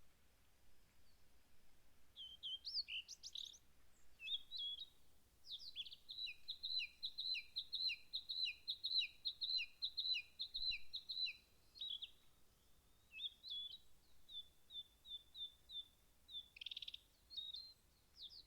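Songbird singing: short chirping phrases from about two seconds in, then a long, fast run of alternating high and lower notes lasting about six seconds, followed by more short phrases.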